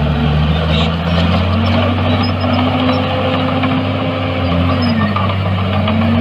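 Heavy earthmoving machine's diesel engine running, its pitch climbing over the first couple of seconds, dipping briefly about five seconds in and rising again.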